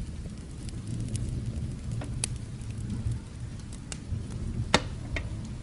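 Fireplace crackling with a few sharp pops, the loudest near the end, over a steady low rumble of distant thunder and light rain.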